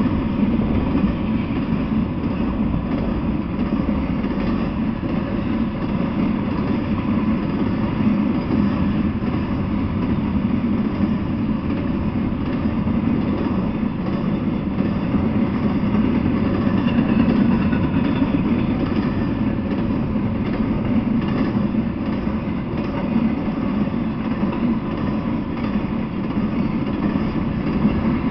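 Intermodal freight train rolling past at a steady speed: the continuous low rumble of container well cars and trailer flatcars running over the rails.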